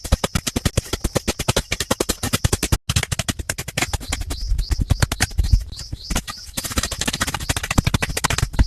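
A rapid, fast-repeating series of sharp knocks, several a second, broken by a short cut about a third of the way in; after it, deeper thuds and a repeating high chirp join in.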